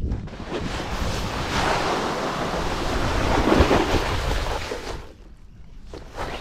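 Rushing noise of wind buffeting the microphone. It swells in the middle and drops away about five seconds in.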